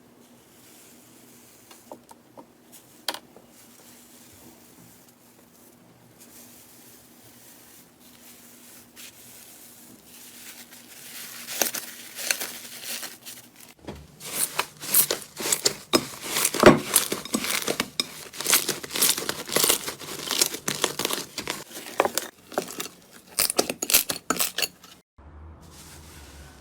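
Slime being worked by hand, with crisp crackling and popping. The clicks are sparse at first, then become loud and dense from about halfway through.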